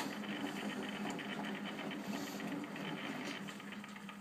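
Bendix 7128 front-loading washing machine tumbling its drum during a wash: a steady motor hum with a rapid, even ticking running over it.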